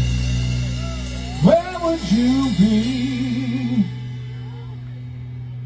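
Live band playing: a steady held low note under a short wavering melodic line that enters about a second and a half in, the music thinning and growing quieter near the end.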